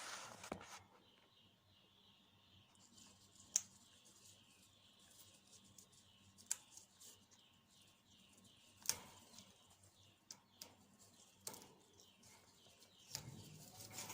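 Faint, sharp clicks and snaps every few seconds, an African grey parrot's beak tearing and chewing at neem leaves and stems, over faint, steady, repeated chirping in the background.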